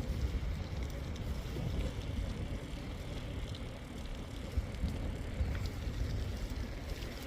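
Wind buffeting the microphone outdoors: a steady, gusting low rumble.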